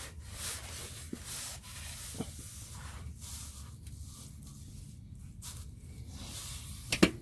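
Handling noise of plastic push-in fasteners being fitted to a car's underbody cover: faint rubbing with a few light knocks, then one sharp snap about seven seconds in as a fastener clicks home.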